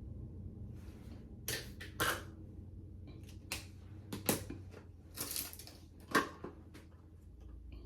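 Small objects being handled: irregular clicks, taps and short rustles, a dozen or so spread unevenly, over a low steady hum.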